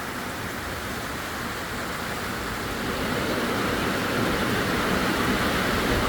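Heavy tropical downpour: a steady rush of pouring rain that grows gradually louder.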